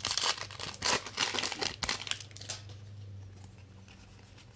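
Plastic trading-card pack wrapper being torn and crinkled for about two and a half seconds, then stopping.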